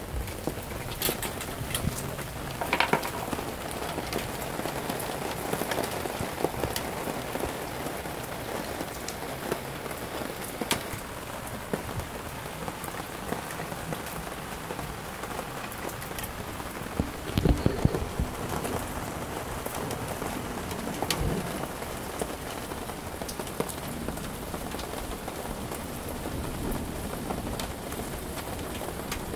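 Steady rain pattering on wet paving, lawn and a garden table, with scattered sharper drops. There is a brief burst of louder low thumps just past the middle.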